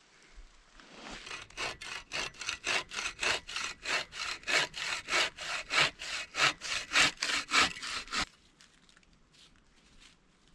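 Hand saw cutting through wood in quick, even back-and-forth strokes, about four a second, starting about a second in and stopping abruptly about eight seconds in.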